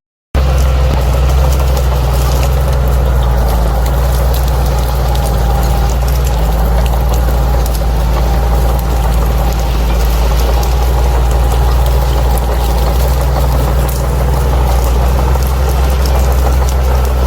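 Bulldozer's diesel engine running steadily at a constant low drone.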